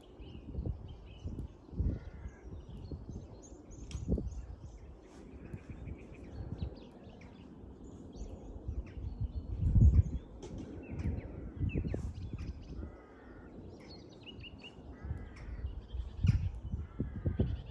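Several birds chirping and calling in a dawn chorus, with a few harsher caw-like calls, over wind gusting and rumbling on the microphone; the strongest gust comes about ten seconds in.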